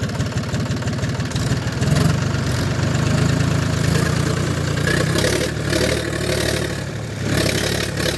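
Tractor diesel engine running steadily, getting louder about two seconds in.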